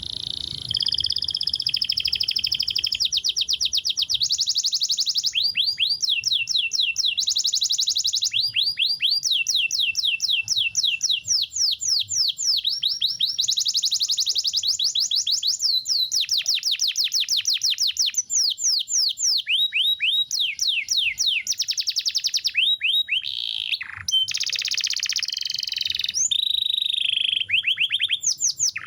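Domestic canary singing a long, energetic song: fast trills of rapid, repeated downward-sweeping notes, changing phrase every few seconds with only brief breaks.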